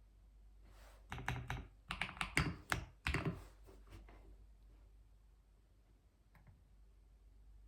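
Computer keyboard typing: a quick run of keystrokes lasting about three seconds, then the typing stops.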